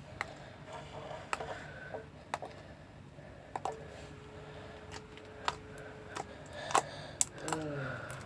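Slime being poked and pressed, giving irregular sharp clicks and pops, the loudest near the end.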